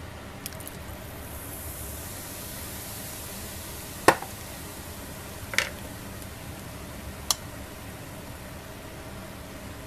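Yakitori grilling over a small tabletop fire pit: a steady sizzling hiss, with a few sharp clicks or pops about four, five and a half and seven seconds in.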